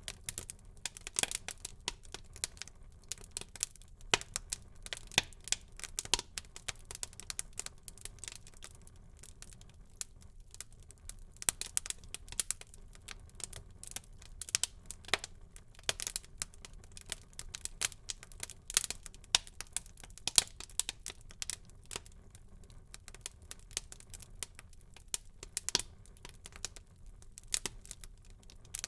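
Wood fire in a fireplace crackling, with many irregular sharp pops and snaps over a soft low hiss of burning.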